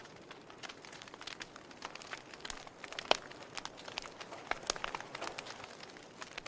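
Wood fire burning in a fireplace, crackling steadily over a soft hiss with irregular sharp pops, the loudest about three seconds in.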